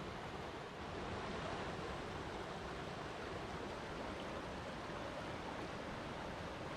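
Water flowing steadily, an even rushing noise with no breaks or changes.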